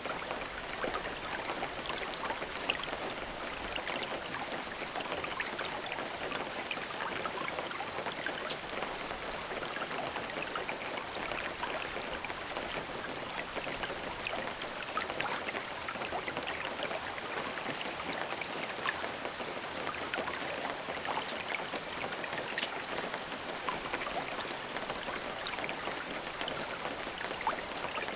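Steady rain falling, with many small individual drops ticking on a surface over an even hiss.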